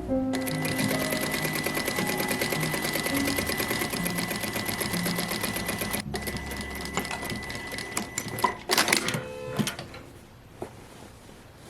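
Sewing machine stitching at a fast, steady rate, with a brief break about six seconds in. A few louder knocks come near the end before it stops.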